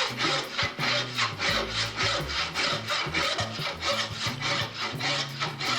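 A hand saw cutting through wood in quick, even back-and-forth strokes, with faint background music underneath.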